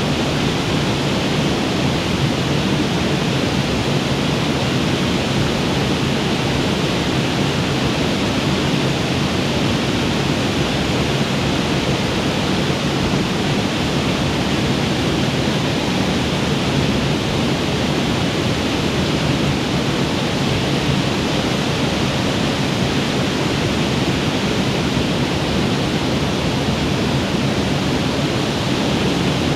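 Waterfall on a mountain creek: a steady rush of falling water with no let-up.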